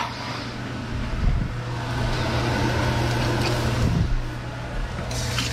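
Wet garlic-ginger and chili paste freshly added to hot onions in a wok, steaming with a steady shh sizzle: the wet stage before it turns to crisp frying. A steady low hum runs underneath.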